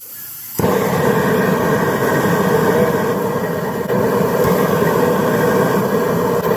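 Outdoor propane cooker burner lighting about half a second in, then burning with a loud, steady rushing of gas flame.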